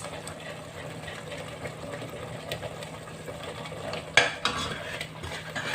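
Curry pot cooking with a steady hiss as freshly added whole spices (bay leaves, star anise, cinnamon, pepper) heat up, then a spoon stirring the pot, clattering and scraping against it several times from about four seconds in.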